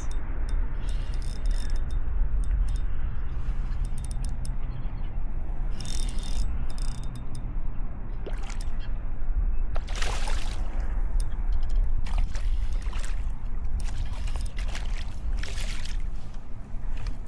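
Water sloshing and trickling around a kayak, with short splashes over a steady low rumble.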